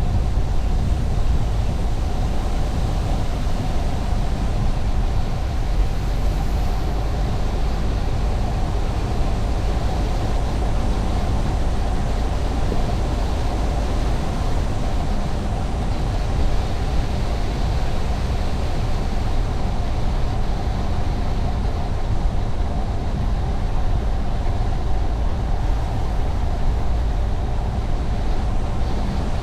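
Car driving along a highway at a steady speed: a continuous low road rumble of tyres and engine that holds even throughout.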